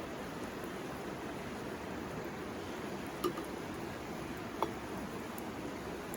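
Steady rushing of a river, with two short sharp clicks a little over a second apart midway through.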